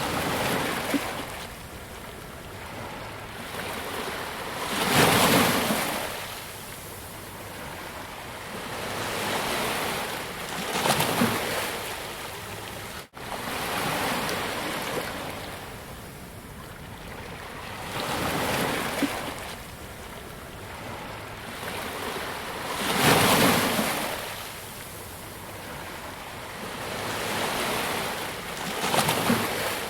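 Sea waves breaking on a beach and washing up the shore, swelling roughly every five or six seconds, with the loudest breakers about five seconds in and again near the middle of the second half. The sound cuts out for an instant about thirteen seconds in.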